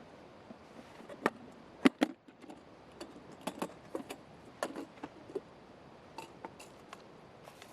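A string of irregular sharp clicks and knocks, with two loud ones close together about two seconds in, as of objects being handled and set down.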